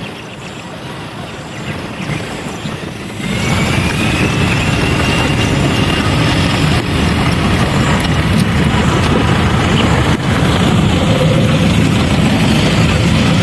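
Aircraft engines running loud and steady, with a whine that rises and then holds. The noise jumps up suddenly about three seconds in.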